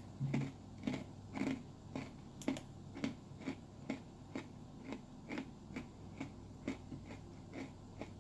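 A person chewing a dry, crunchy MRE cookie close to the microphone, in an even rhythm of about two chews a second.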